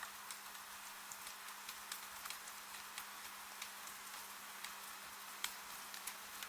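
Steady rain hiss with irregular sharp raindrop ticks and taps scattered through it, over a faint steady low hum.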